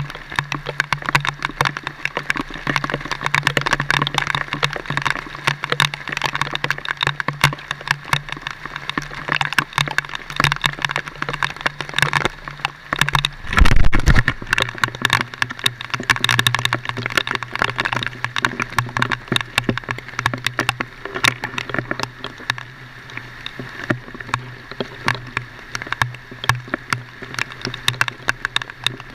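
Vehicle engine running with a steady low hum, over dense clicking and rattling. One loud low thump about halfway through, after which the hum settles slightly lower.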